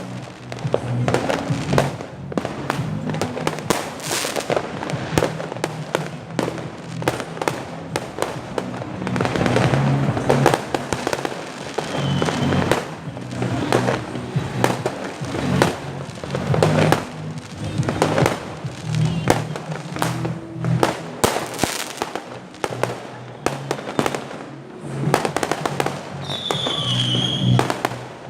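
Fireworks and firecrackers going off densely, a continuous stream of sharp bangs and crackles at irregular intervals, with a short high whistle near the end.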